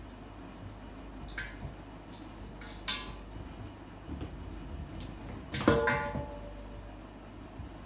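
A few sharp knocks or clatters of hard objects, three in all, the loudest about three seconds in; the last, near six seconds, rings on briefly with a clear tone.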